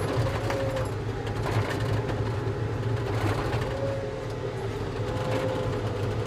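Volvo skid steer's diesel engine running steadily under load, with a higher whine that comes and goes as it manoeuvres.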